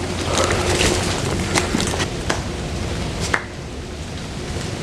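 Steady outdoor noise with wind rumbling on the microphone and a few light clicks spread through it.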